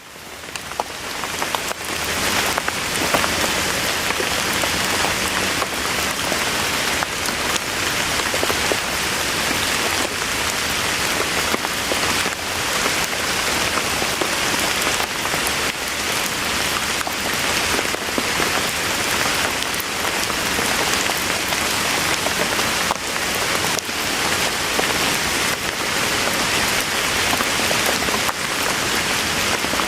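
Steady rain, with individual drops clicking sharply against a surface through the wash. It fades in over the first second or two and then holds even throughout.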